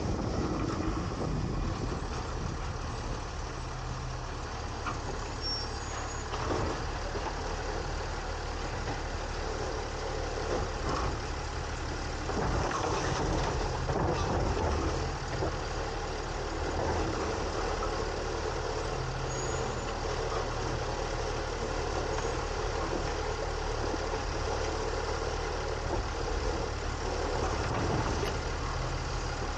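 Refuse truck (2022 Autocar ACX with a New Way Sidewinder side-loader body) running, with its engine note swelling and easing now and then. Mechanical and hydraulic noise comes from the automated arm and hopper working, with a few short knocks along the way.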